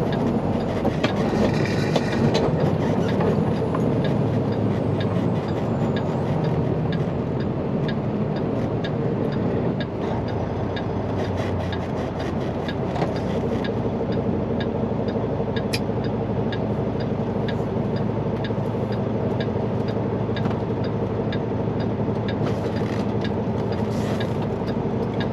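Semi truck's diesel engine running with road noise, heard inside the cab. A small click repeats at an even pace, about one and a half times a second, typical of the turn signal ticking for a left turn.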